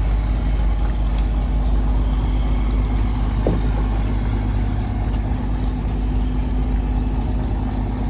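Fishing trawler's diesel engine running steadily, a continuous low drone, with one faint knock about halfway through.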